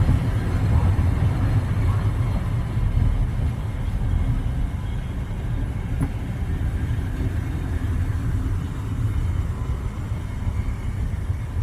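A train passing, a steady low rumble that slowly fades.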